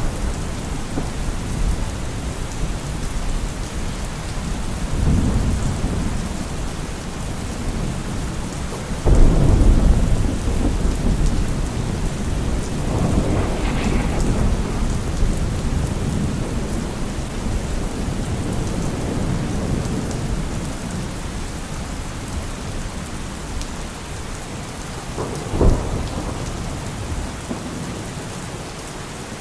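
Thunderstorm: steady heavy rain with rolling thunder. A sudden loud rumble about nine seconds in, another rolling peal a few seconds later, and a sharp crack of thunder near the end.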